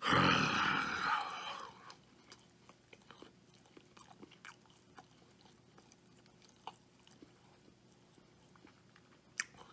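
A man chewing a large mouthful of burger with soft, wet mouth clicks, starting with a loud, breathy burst that lasts under two seconds.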